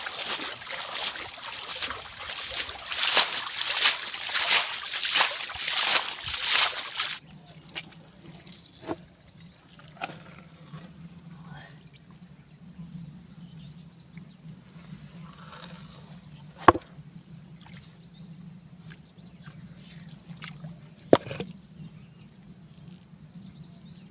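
Water splashing and sloshing in loud surges as hands grope through shallow water for fish; about seven seconds in it cuts off, leaving quieter trickling with a low steady hum and two sharp knocks later on.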